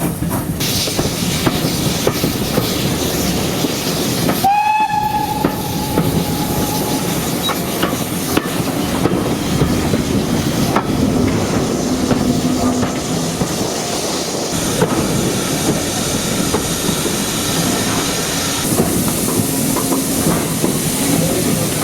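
Train running on the line, a steady rumble with wheel clatter, and a single whistle that sounds about four and a half seconds in and holds one pitch for about two and a half seconds.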